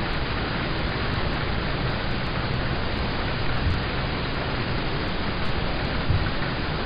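Steady, heavy rain on a car's roof and windows heard from inside the car: a dense, even hiss, with a couple of soft low thuds about halfway through and again near the end.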